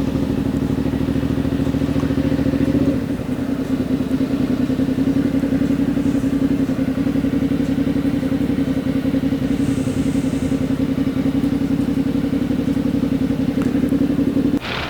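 Suzuki V-Strom 650's V-twin engine running steadily, the sound shifting a little about three seconds in and cutting off abruptly near the end.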